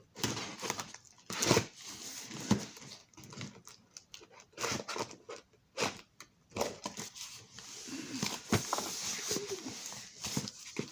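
Cardboard shipping box being torn open by hand, with irregular ripping, scraping and crinkling of the box and its packing, and a few sharp knocks and squeaks as it is handled.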